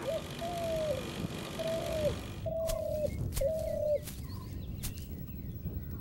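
A bird calling five times in a row. Each call is a steady note about half a second long that drops in pitch at the end.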